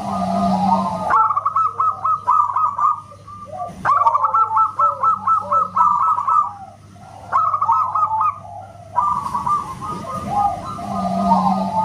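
Zebra dove (perkutut) singing: quick runs of staccato cooing notes in several phrases, broken by short pauses, over a faint steady hum.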